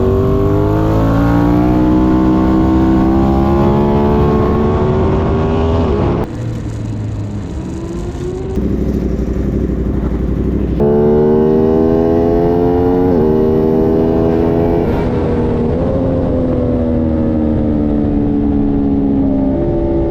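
Aprilia Tuono 660's parallel-twin engine at speed on track. Its pitch climbs under acceleration and drops sharply at each upshift, and it eases off for several seconds about six seconds in.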